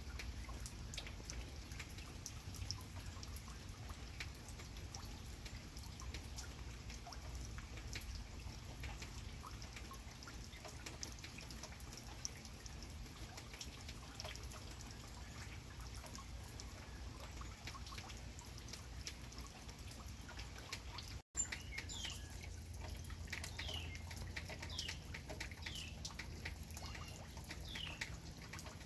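Steady light rain with drips pattering on leaves and surfaces. After a short break in the sound about two-thirds of the way through, a bird gives a series of about six short, high, falling chirps about a second apart.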